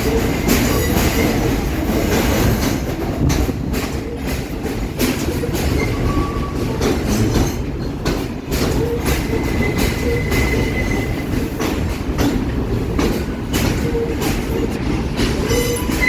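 R143 subway train running along the track: a steady rumble of wheels on rail with frequent clacks over rail joints, and a faint high wheel squeal about ten seconds in and again near the end.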